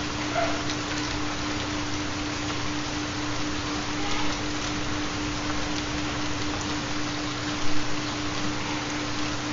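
Steady rain falling, with a constant low pure tone underneath from a theta binaural-beat track. There is a brief louder spatter about eight seconds in.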